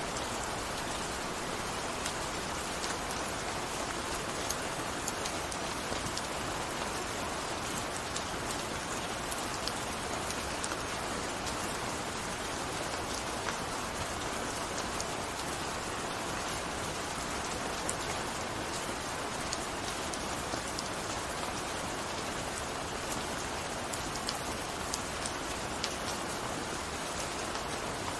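Steady gentle rain falling on a surface, a constant hiss with many small drop ticks.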